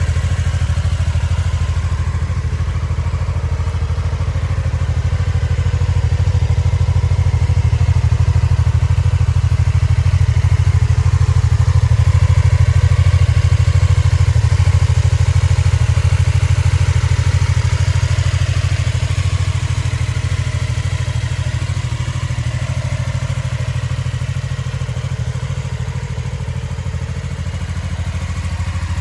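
BMW F450 GS parallel-twin motorcycle engine idling steadily, warming up after a cold start.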